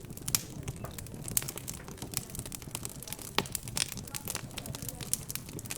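Wood fire crackling in a fireplace: irregular sharp pops and snaps, a few louder ones, over a steady low background.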